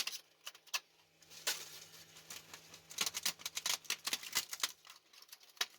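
PLA+ support material being snapped and picked off a 3D-printed part: an irregular run of small sharp cracks and clicks, coming thickest about three seconds in.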